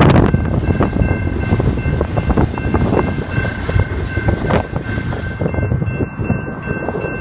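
Freight train rolling past, its wheels clicking rapidly over the rails under a steady rumble, with a steady high-pitched squeal held throughout.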